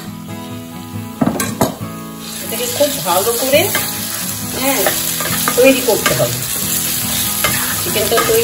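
Marinated chicken going into hot oil with frying onions in a nonstick pan: a couple of knocks, then sizzling that grows louder about two seconds in as a wooden spatula stirs and scrapes the pieces around the pan.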